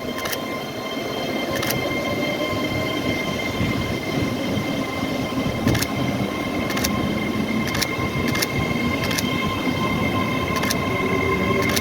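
A train running through the station: a steady low rumble with a high steady whine and irregular sharp clicks of the wheels over rail joints.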